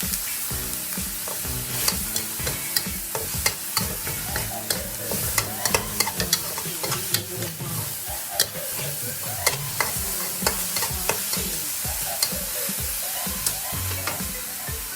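Holy basil stir-fry (pad krapow) sizzling in a hot pan while a spatula stirs and scrapes it, with many sharp clicks of metal on the pan over a steady hiss.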